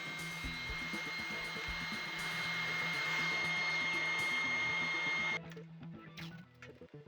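Table saw running and cutting through a wood block, with a steady high whine, louder in the middle of the cut, cutting off suddenly about five seconds in; background music continues after it.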